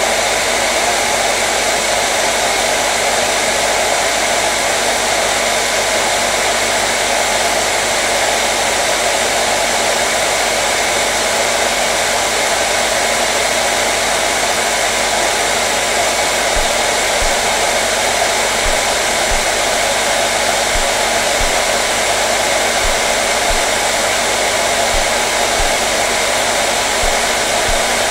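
Hair dryer running steadily: a constant, unchanging blowing rush with a faint motor hum beneath.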